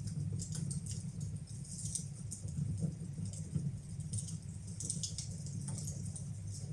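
Wood fire burning in a fireplace: a steady low rush with sharp, irregular crackles and pops scattered throughout.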